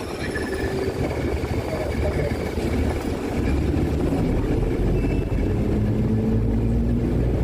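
Steady low rumble of a running vehicle, growing heavier about three and a half seconds in, with faint voices in the background.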